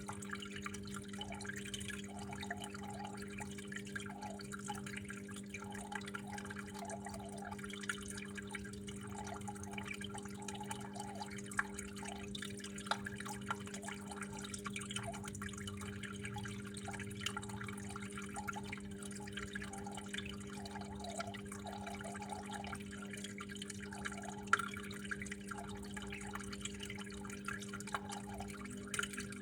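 Water trickling and dripping steadily, with scattered individual drops, over a steady low hum.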